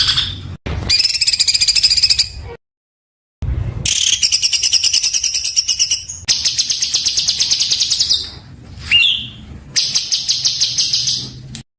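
Songbird song for tutoring cage birds: harsh, very rapid rattling trills in dense bursts, in several spliced stretches broken by short dead-silent gaps. About nine seconds in there is a single short curved whistle.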